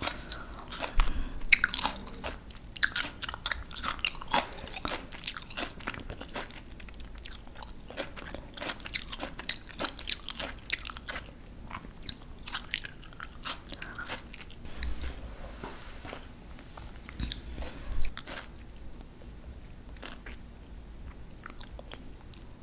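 Close-miked crunching and chewing of crisp raw vegetables. Dense, sharp bites and crunches in the first half thin out to softer chewing later, with one louder crunch about 18 seconds in.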